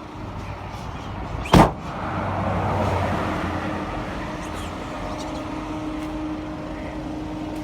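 A single loud thump about one and a half seconds in, then a car passing on the road, its noise swelling and fading, over a steady engine hum.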